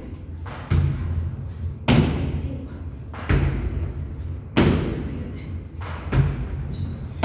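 Heavy thuds of feet landing from repeated jumps, one about every 1.3 seconds, each with a short ringing tail.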